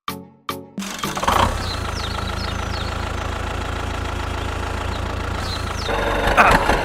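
A few plucked musical notes, then from about a second in a mini tractor's engine running steadily at idle, with a few short high chirps over it.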